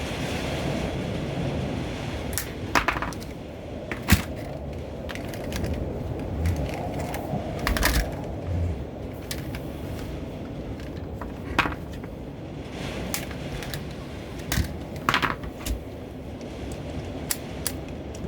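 Scattered sharp clicks and light clinks of small tools and parts being handled on a workbench while wiring a loudspeaker crossover board, over a steady low background rumble.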